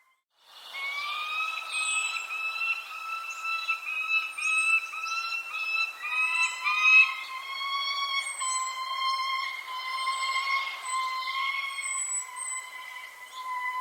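Birds chirping: short, high, falling chirps about once a second over a steady whistling tone with overtones, which wavers slightly and steps down in pitch about six seconds in. The sound fades in after a brief dropout at the very start.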